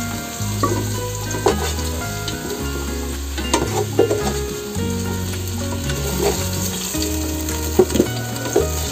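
Minced garlic frying in hot oil, a steady sizzle.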